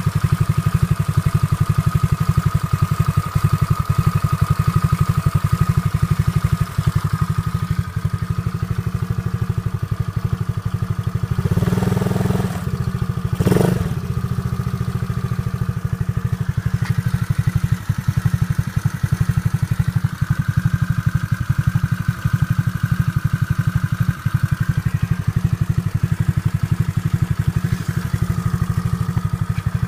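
Peace Sports 110cc four-stroke single-cylinder engine idling steadily, with a short louder surge about halfway through.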